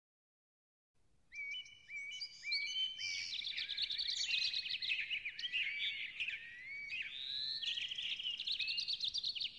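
Birds chirping and whistling, many short rising and falling calls overlapping, starting after about a second of silence.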